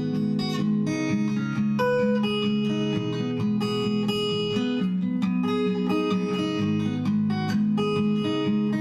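Background music: acoustic guitar strummed and picked in chords, played by the uploader on old, rusty strings.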